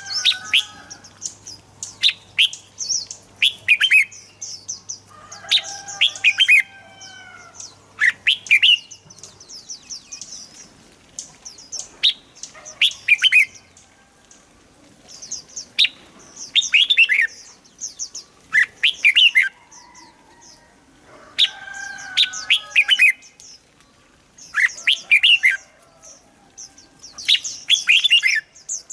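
Red-whiskered bulbuls singing: short clusters of quick, bright whistled notes, repeated every couple of seconds.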